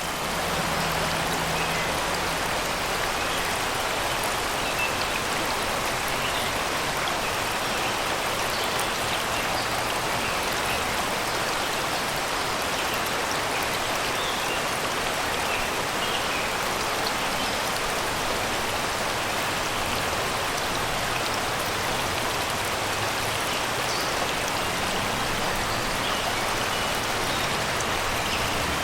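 Shallow river water rushing and babbling over rocks and stones, a steady, even rush. Faint short bird chirps sound here and there above it.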